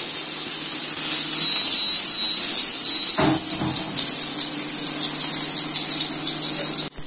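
Slice of mustard-stuffed ash gourd frying in hot oil in a frying pan: a steady, loud sizzling hiss that cuts off abruptly near the end.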